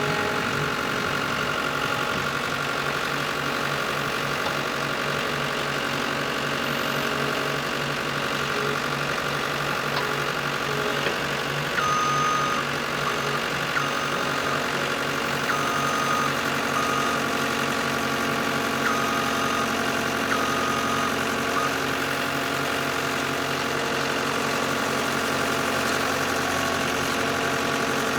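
Skid steer engine running steadily while it powers an earth-drill auger boring post holes. A few short high chirps sound over it in the middle.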